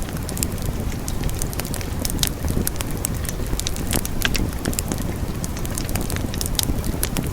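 Wood fire burning in a fireplace: a steady low rush of flames with frequent irregular crackles and pops of burning logs.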